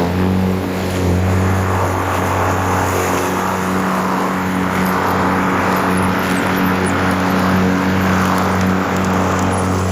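A motor or engine running steadily, a constant low hum with an even rushing noise over it.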